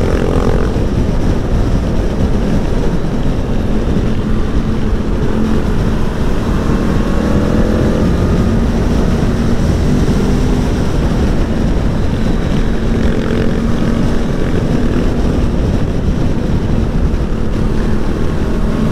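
Aprilia Tuono V4 1100's V4 engine running as the motorcycle is ridden along, its revs rising and falling a little, over a heavy rush of wind and road noise.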